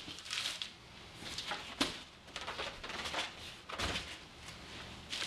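Cardboard and packing material being handled and rustled, with a sharp knock a little under two seconds in and a dull thump near four seconds.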